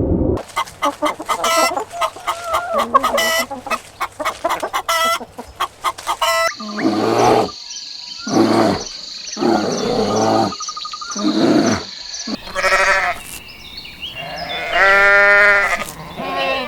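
Farm animals calling: a stretch of rapid clucking and clicking, then a series of loud separate calls, the last two long and clearly pitched, like bleats.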